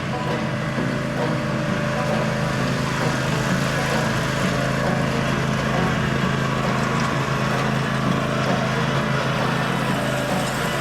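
Ariens zero-turn mower's engine running steadily at a constant speed.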